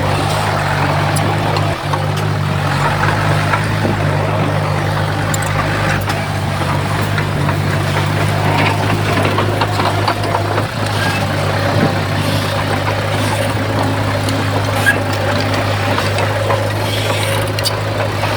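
Heavy diesel engine of earthmoving machinery running steadily at a constant speed, with a deep, even hum and a few faint clanks over it.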